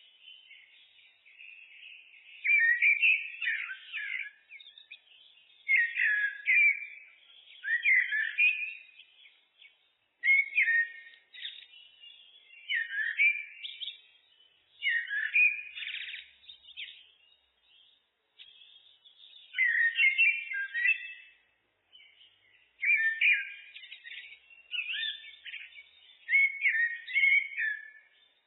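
Common blackbird (Turdus merula) singing: short warbled phrases, one every two to three seconds, with brief pauses between them.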